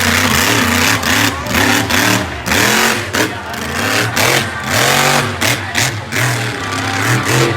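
Monster truck engine revving hard, its pitch rising and falling over and over.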